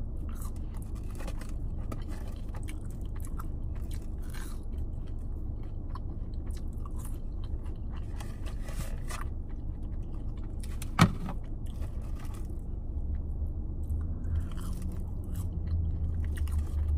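Close-miked chewing of a mouthful of sauce-dipped crinkle-cut fries, with wet, irregular mouth sounds over a steady low rumble. A single sharp click about eleven seconds in is the loudest sound.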